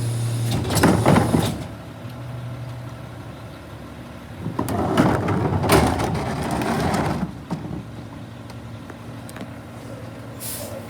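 A garbage truck's engine running with a steady low hum. Twice, louder stretches of mechanical noise rise over it, one brief and one a few seconds long, and a short hiss comes near the end.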